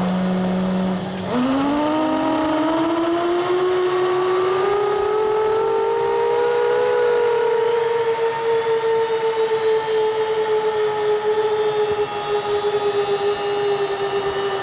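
F-15 fighter jet starting up: a steady lower hum breaks off about a second in, and a whine rises in pitch over several seconds as the engine spools up, then levels off and sags slightly.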